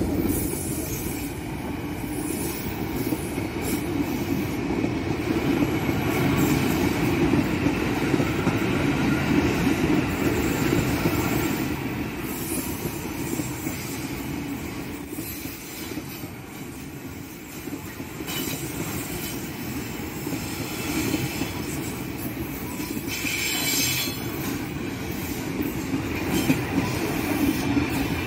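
Ex-Tokyo Metro 6000 series electric commuter train (KRL TM 6008) running past on a curve, its wheels rumbling steadily over the rails, with wheel squeal from the curve that grows sharper and louder about five seconds before the end.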